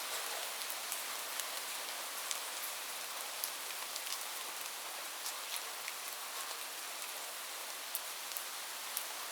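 Steady rain falling, an even hiss with many scattered individual drops ticking irregularly on a surface.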